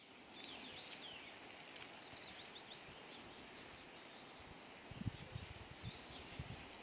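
Faint outdoor ambience with small birds chirping in quick short calls over a steady hiss. About five seconds in, low thumps and rumbling begin.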